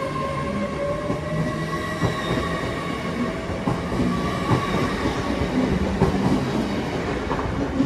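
TransPennine Express Class 802 train moving past along the platform: a steady whine over continuous wheel and rail rumble, with scattered clicks of wheels over rail joints. The last coach passes near the end.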